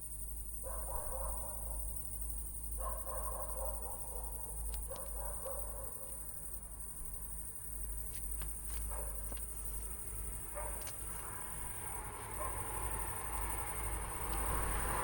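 Crickets trilling steadily with a high, unbroken tone, over a faint low rumble.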